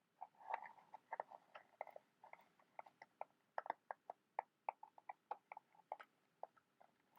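Fingernails tapping quickly and irregularly, several light, sharp taps a second.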